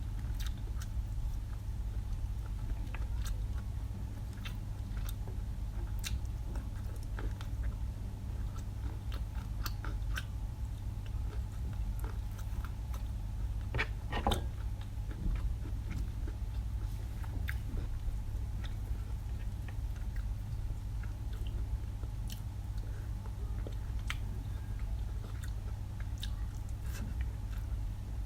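A person chewing and biting food up close, with scattered crisp clicks and crunches, over a steady low hum.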